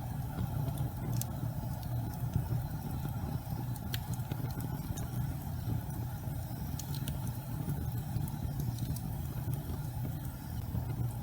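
Fireplace fire burning with a steady low rumble and scattered faint crackles.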